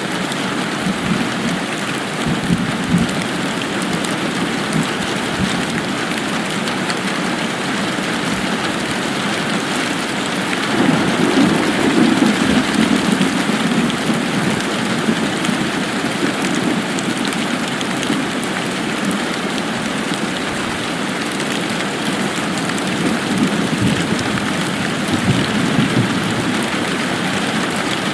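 Steady rain falling, an even hiss of drops, with a low swell that grows louder for a few seconds around the middle.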